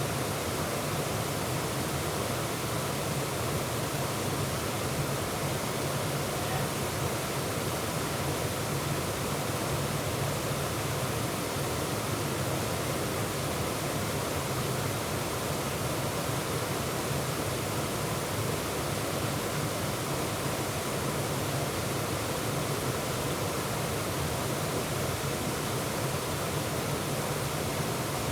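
Waterfall pouring steadily: a constant, even rush of falling water with no breaks or single events.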